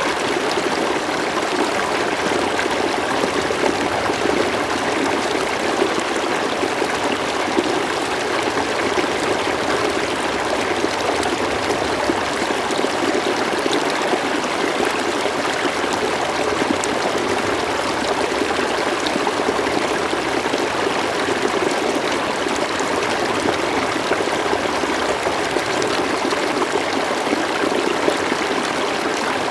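River water flowing steadily over the bed, a continuous even rush and burble.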